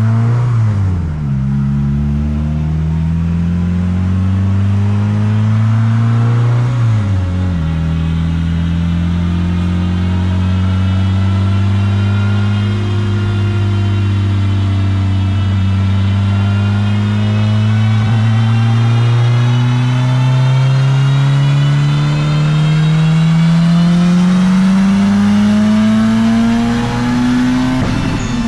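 Turbocharged, single-cam Honda D16 four-cylinder engine making a wide-open-throttle chassis-dyno pull, heard from inside the car at about 17 psi of boost. The revs dip sharply twice in the first seven seconds as it shifts up. Then the engine climbs steadily in pitch for about twenty seconds and drops off at the end as the throttle is closed.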